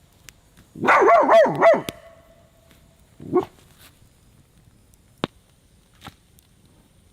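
A dog barking: a quick run of about four barks about a second in, then a single bark a little after three seconds. Two sharp clicks follow later.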